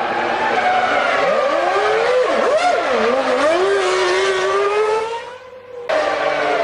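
A 1999 Formula One car's V10 engine revving in the pit lane, its pitch swooping up and down sharply, then climbing steadily as the car pulls away. The note fades near the end and cuts abruptly to another engine's steady running note.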